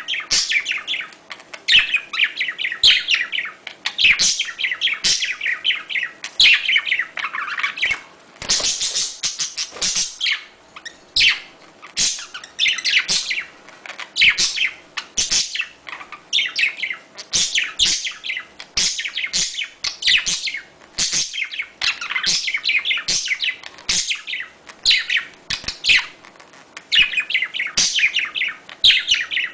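Budgerigars chirping and warbling: quick chattering runs of high chirps and trills, one cluster after another with short pauses, the kind of chatter played to stimulate budgies to breed.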